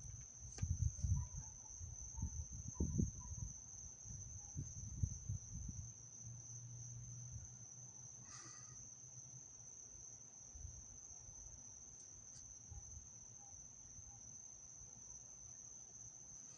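Crickets trilling steadily on one unbroken high note, with low rumbling noise in the first several seconds.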